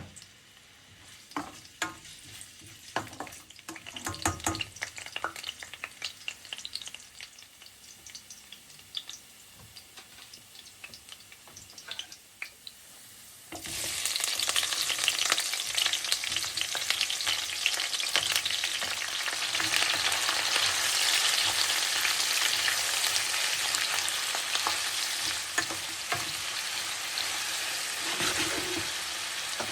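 Food frying in a pan in a home kitchen: first scattered clicks and knocks of utensils against cookware, then about fourteen seconds in a loud sizzle starts suddenly and runs on steadily, crackling, with stirring.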